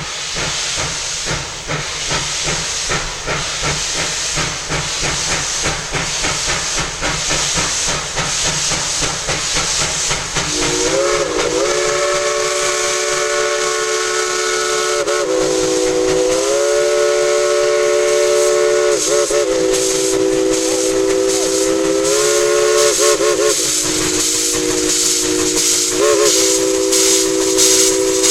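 Steam locomotive 190 working steam with a rapid, regular exhaust chuff that grows louder as it nears. About ten seconds in its chime whistle, a chord of several tones, starts blowing a series of long and short blasts that carries on to the end.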